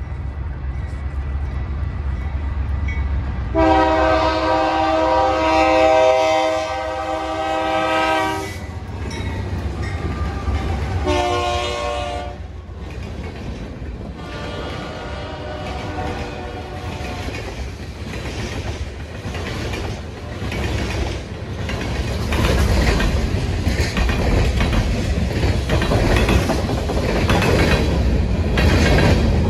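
Freight train's horn sounding as it approaches: a long blast, a short one, then a fainter longer one. Then the freight cars roll past close by, wheels clattering over the rail joints with a rumble that grows louder near the end.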